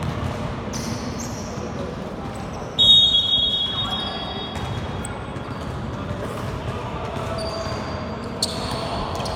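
Basketball game sounds: a ball bouncing and short sneaker squeaks on the court, over a steady background hum. About three seconds in comes a loud, high, shrill tone lasting about a second.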